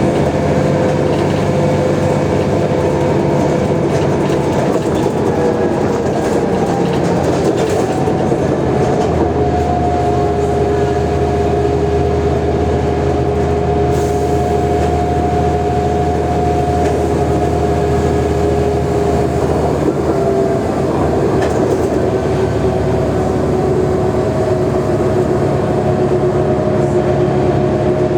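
Mercedes-Benz O345G articulated diesel bus under way: a steady engine drone with a whine laid over it. The whine shifts up in pitch about nine seconds in, holds, then drops back around twenty seconds in.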